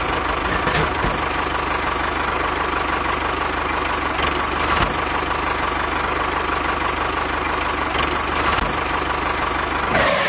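An engine running steadily at an idle.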